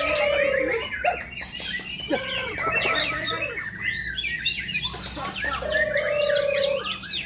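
White-rumped shamas (murai batu) singing, several songs overlapping in a dense mix of whistles, quick rising and falling chirps and trills, with a long low trilled note at the start and again about five and a half seconds in.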